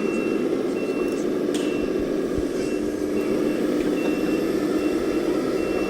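Reversing beeper of an RC model truck's sound module, a high beep repeating about once every 0.8 seconds over a steady engine sound: the model is backing up.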